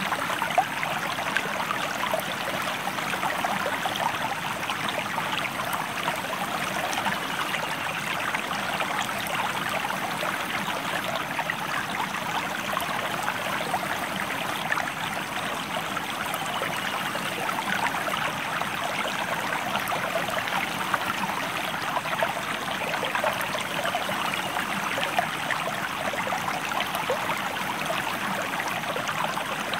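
River water flowing steadily over a shallow bed, a constant rush with small splashes and trickles.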